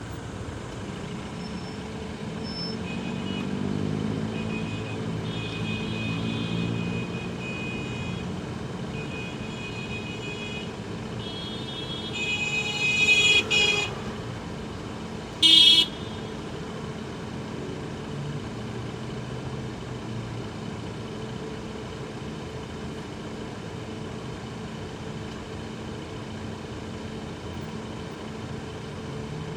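Vehicle horns honking in city traffic: a run of short and longer honks that builds to the loudest around the middle, then one short, very loud horn blast. Underneath is the steady running of a motorcycle engine and road noise.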